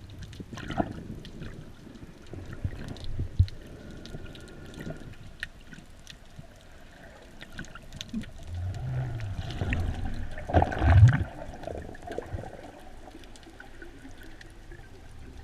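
Underwater sound: a steady scatter of faint crackling clicks over low water movement and thumps, with a louder rush of moving water about ten and a half seconds in.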